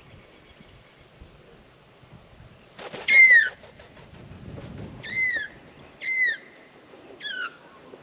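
A bird calling: a series of short, clear, down-slurred whistled notes, repeated roughly once a second, starting about three seconds in, with the first note the loudest.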